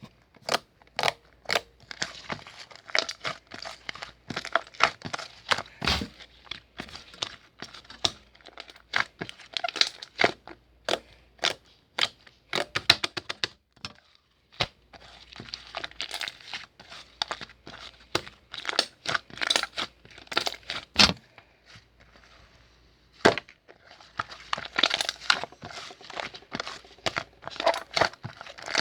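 Slime being squeezed, stretched and poked by hand, making dense sticky clicks and crackles as air pockets pop, with a brief lull about three quarters of the way through.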